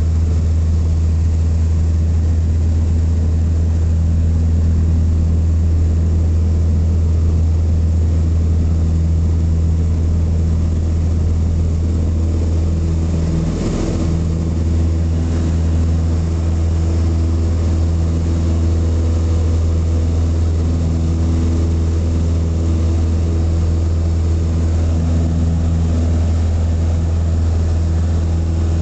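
Cessna 152's four-cylinder piston engine and propeller running steadily at full power on the take-off run, a loud even drone. About halfway through there is a brief knock.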